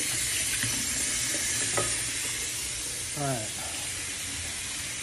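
Shrimp pieces frying in butter in a pan, a steady sizzle.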